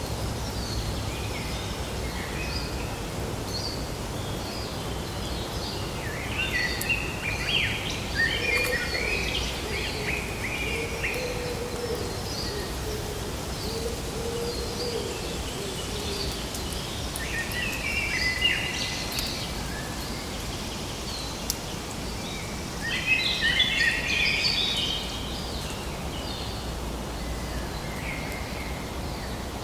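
Birds chirping over a steady hiss of outdoor background noise, in several bursts of quick chirps, the loudest about a quarter of the way in and again near the end.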